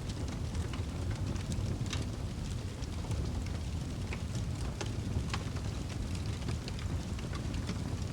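Wood fire burning in a fireplace: a steady low rumble of flame with frequent irregular crackles and small pops.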